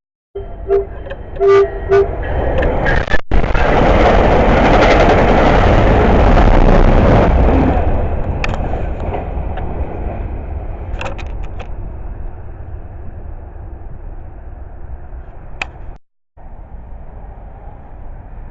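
Train horn sounding a few short blasts, then a train passing close at speed, a loud rush of wheels on rail that fades away over several seconds.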